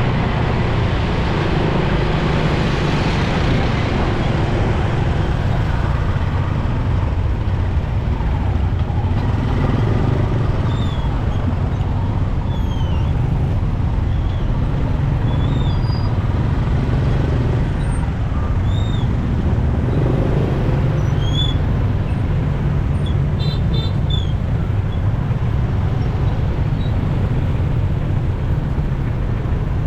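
Steady running of a motorcycle in city traffic, heard from the rider's own bike: engine drone and road noise with surrounding traffic. Faint short high chirps come and go through the second half, with a brief burst of beeps a little past the middle.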